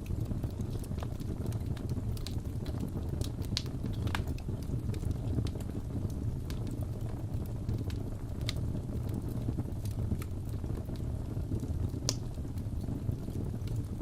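Crackling wood fire in a fireplace: a steady low rumble of burning with scattered sharp pops and crackles, about half a dozen of them standing out louder.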